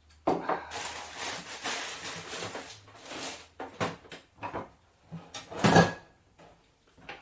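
Kitchen handling sounds: about three seconds of dense rustling, then a series of sharp knocks and a louder clatter near the end, like a drawer or cupboard being worked and dishes set down.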